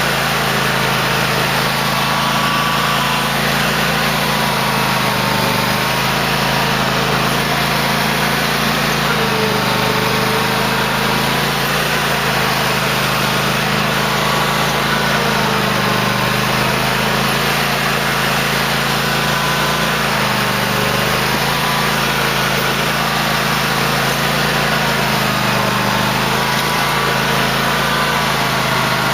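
2008 Cub Cadet LT1050 lawn tractor's engine running steadily while plowing snow, its pitch wavering slightly up and down.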